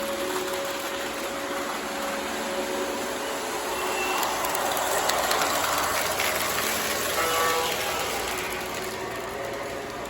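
O gauge model trains running on the layout track: a steady rolling rumble of wheels and motors that swells in the middle. A short electronic diesel-horn sound comes from a locomotive about seven seconds in.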